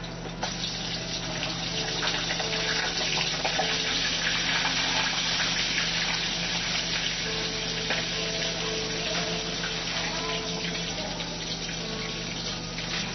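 Kitchen tap water running into a sink, a steady splashing hiss that comes on about half a second in and is strongest in the middle, over a low steady hum.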